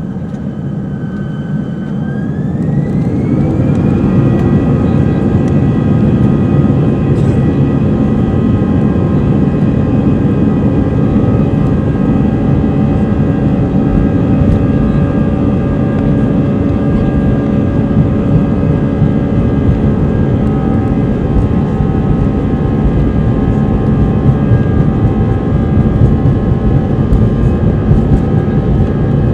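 Airbus A319 jet engines spooling up to takeoff thrust: a whine rises in pitch and the sound grows louder about two seconds in, then holds as a loud, steady drone with a constant whine through the takeoff roll.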